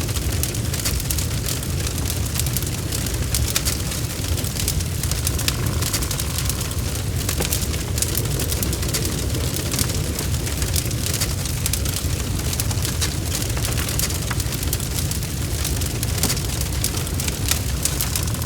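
Wood fire burning in a fireplace: constant, irregular crackling and popping over a steady low rumble of the flames.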